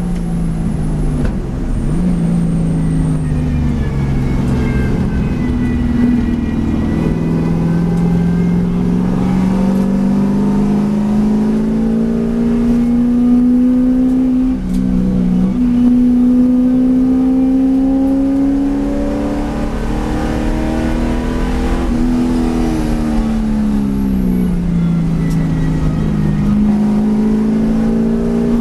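V8 race car engine under hard acceleration, its pitch climbing steadily with a brief dip about halfway through, then falling away as the car slows before climbing again near the end.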